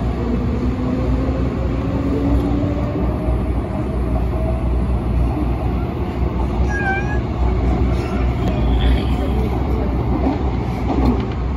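MTR Tung Chung Line A-train (Adtranz-CAF electric multiple unit) running out of a station, heard from inside the car: a steady low rumble of wheels and running gear, with a faint motor whine rising in pitch over the first few seconds as it picks up speed. A brief high squeal about seven seconds in.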